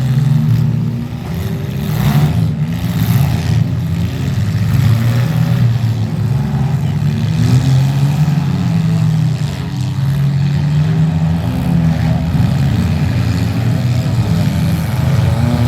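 Demolition derby car engines running and revving, their pitch rising and falling throughout, with a few brief knocks about two to three seconds in.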